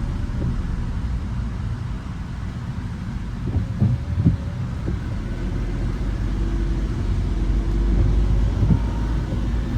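Car driving on a wet road: a steady low road-and-tyre rumble, with a few short thumps a little under four seconds in.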